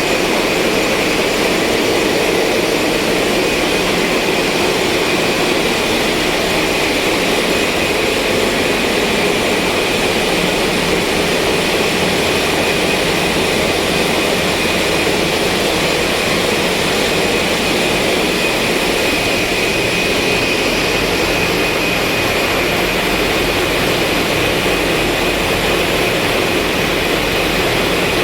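Heavy marine diesel machinery of a ship running steadily: a constant loud drone with a steady high-pitched whine over it.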